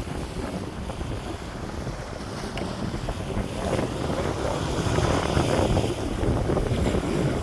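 Wind buffeting the microphone: a rough, noisy low rumble that grows gradually louder, with no steady tone in it.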